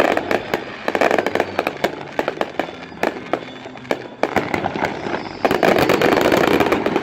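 Acme consumer fireworks going off: a dense run of rapid crackling reports, heaviest about a second in and again from about five and a half seconds on.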